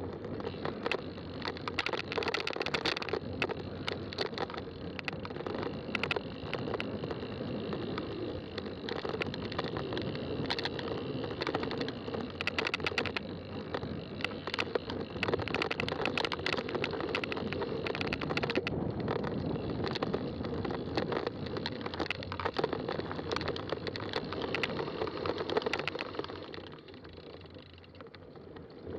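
Fat-tire bike rolling along a trail: a steady tyre-and-ride noise full of small clicks and rattles. It eases off and goes quieter a couple of seconds before the end.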